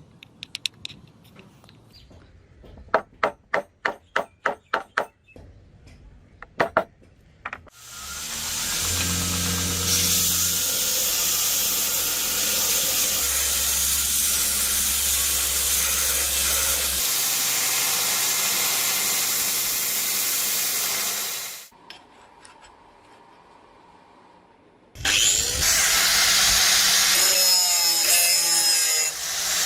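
A handful of sharp metallic taps, then an electric power tool grinding steel: it winds up, runs steadily for about thirteen seconds and stops, and after a short pause starts grinding again.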